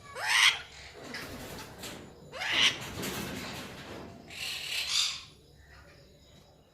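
A parrot giving three loud calls, the first two sweeping up in pitch, the third a harsher, longer screech.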